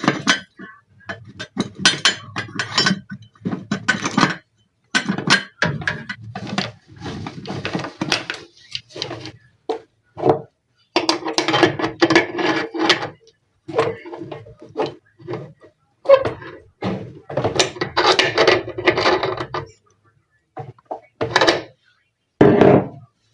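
People's voices talking on and off, in stretches broken by short pauses; the recogniser wrote none of it down.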